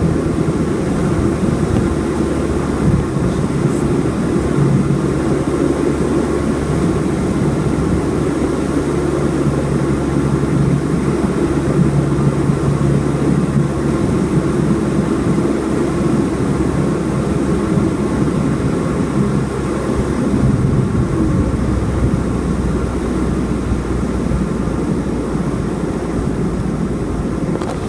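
Cessna 206's six-cylinder piston engine and propeller droning steadily, heard from inside the cockpit during approach and landing, with the engine note changing about 20 seconds in.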